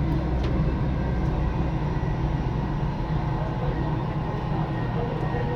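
Metro train running between stations, heard from inside the carriage: a steady low rumble of wheels on the rails, with faint steady high tones over it.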